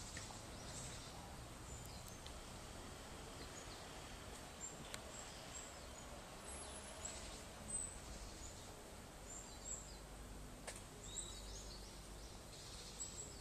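Quiet background hiss with faint, scattered high-pitched bird chirps.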